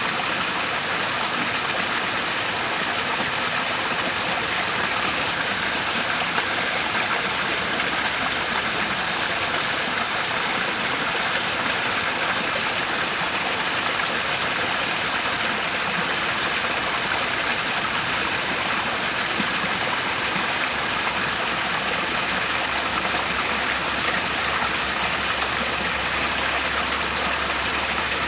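Natural waterfall: a steady, even rush of falling water, weighted toward the hissy middle-high range with little bass. A faint low hum joins about two-thirds of the way through.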